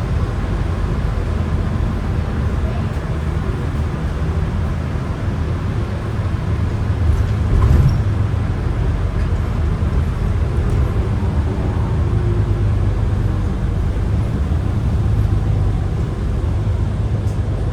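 MAN ND323F double-decker bus heard from inside while driving, a steady low engine and road rumble, with a brief louder swell about eight seconds in.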